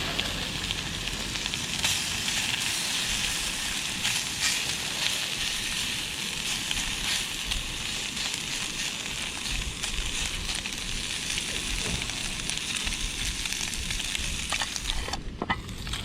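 Bacon frying in a pan, a steady sizzle with small crackles and spits.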